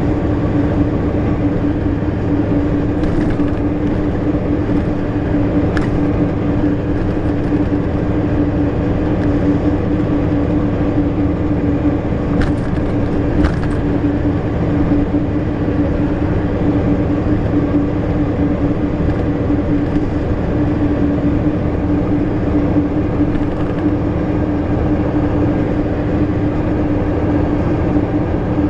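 Ikarus-250.95 bus's YaMZ diesel engine running steadily under way, a constant drone with an even pitch. A few faint short clicks or rattles come through it.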